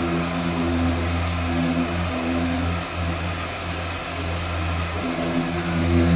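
Machine sander running steadily on body filler: a steady motor hum with a hiss over it, wavering a little in level.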